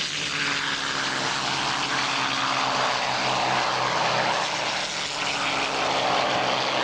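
P-51 Mustang fighters' V12 piston engines running with a steady propeller drone, the pitch and level holding nearly even.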